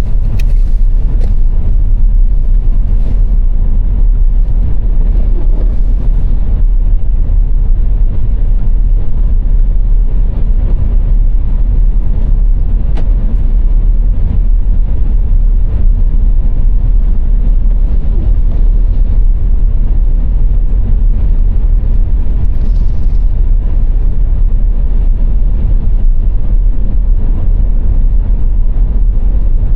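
Car cruising on a motorway: a steady, deep rumble of road and engine noise that holds even throughout.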